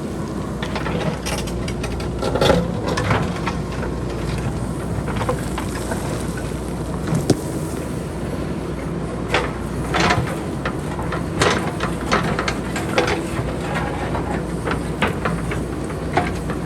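JCB backhoe loader's diesel engine running steadily under an irregular clatter of boulders and pebbles knocking together as they tumble down a hillside being cut away.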